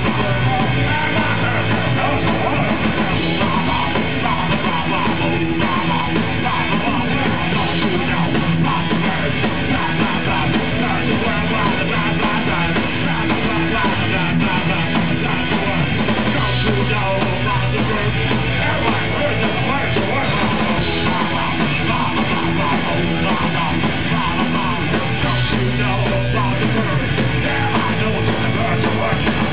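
Live punk rock band playing loud, with electric guitars, bass and drums and no singing.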